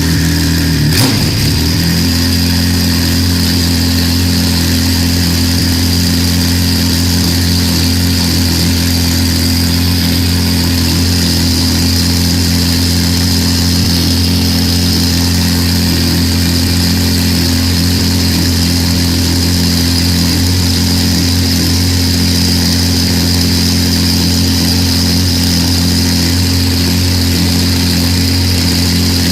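Engine of the Pennzoil NISMO GT-R JGTC race car idling steadily, with a brief blip in engine speed about a second in. A steady high whine runs alongside.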